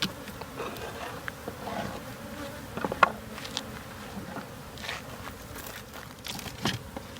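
Many honeybees buzzing around comb being cut out of their hive, a steady dense hum. A few sharp clicks and knocks of handling stand out, the loudest about three seconds in.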